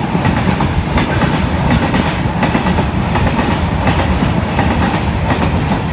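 Two trains passing on adjacent tracks, heard from the open door of a moving passenger coach: a loud, steady rumble of steel wheels on rail with clickety-clack as a line of freight tank wagons goes by.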